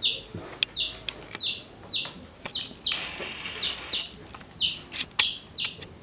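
A bird chirping over and over: short chirps that slide downward in pitch, about two a second, with a few sharp clicks in between.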